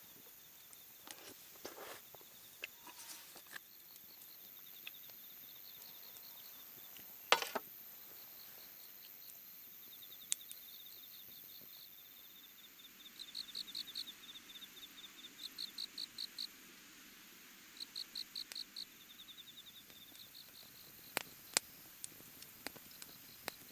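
Crickets chirping in short, evenly pulsed trills that repeat in groups, over a faint outdoor background. A few sharp clicks or cracks come through, one louder crack about seven seconds in.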